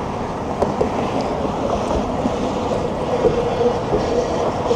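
Wind rushing over the microphone and the rush of motor traffic heard from a moving bicycle, with a steady hum joining about halfway through.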